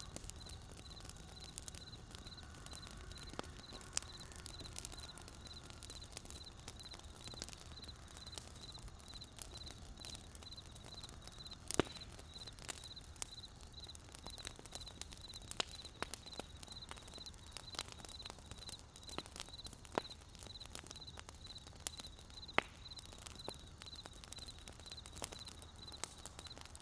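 Wood fire crackling: irregular sharp pops and snaps, a handful clearly louder than the rest, over a low steady rumble. A high, evenly pulsed chirping runs steadily behind it.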